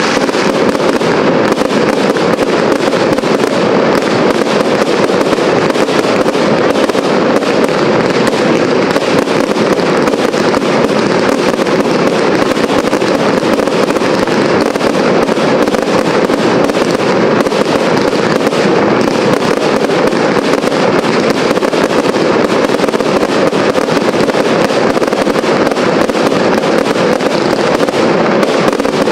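Fireworks going off in a dense barrage: rapid, continuous bangs and crackling of aerial shells and rising comets, with no pause.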